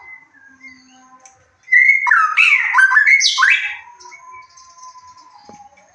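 White-rumped shama (murai batu) song: a loud, rapid phrase of varied, sliding whistles and warbles lasting about two seconds, starting near two seconds in. Softer, scattered whistled notes come before and after it.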